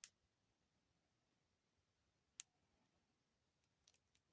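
Near silence broken by two faint, sharp clicks about two and a half seconds apart, with a couple of tinier ticks near the end: small metal jewelry parts clicking together as charms are slid onto a wire finding.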